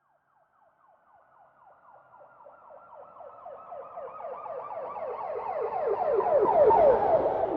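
Police car siren in a fast yelp, rapid sweeps of pitch about seven times a second. It grows louder from nothing over about six seconds as the vehicle approaches, then peaks and starts to fade near the end as it passes. A low vehicle rumble joins at the peak.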